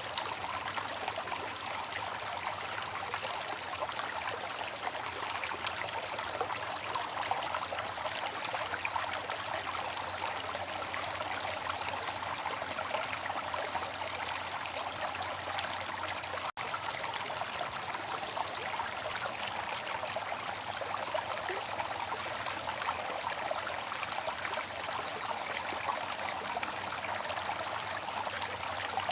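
Water fountain trickling and splashing steadily, with a split-second dropout about halfway through.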